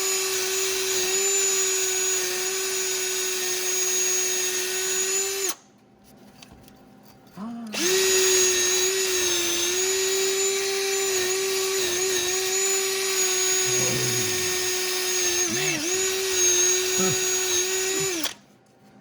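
Electric drill running at steady high speed, cleaning the spot where a broken exhaust manifold bolt was removed. It stops about five and a half seconds in and starts again about two seconds later. It then runs with a few brief dips in pitch under load and cuts off near the end.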